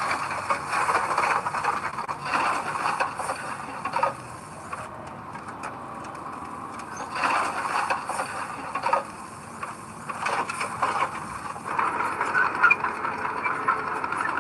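Heavy earthmoving machinery working, its sound rising and falling unevenly: quieter from about four seconds in, louder again around eight seconds and near the end.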